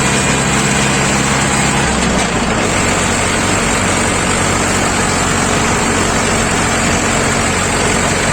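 Mahindra 415 DI tractor's diesel engine running steadily, its low note shifting about two seconds in, with a dense noisy hiss over it.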